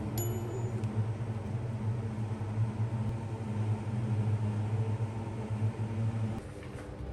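Electric kitchen appliance humming steadily, cutting off suddenly about six seconds in, with a short click near the start.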